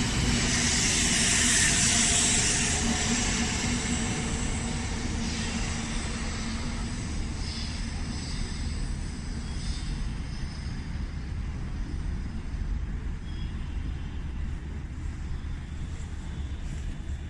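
700 series Shinkansen train pulling away from the station, its running noise fading. A high hiss is strongest about two seconds in, then the sound dies down to a steady low rumble.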